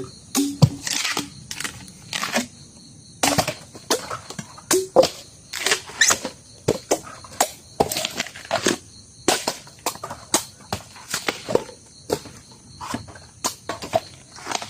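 Sharp, irregular chops and cracks, about one or two a second, from a blade cutting into bamboo shoots, with some longer crackling tears between strikes.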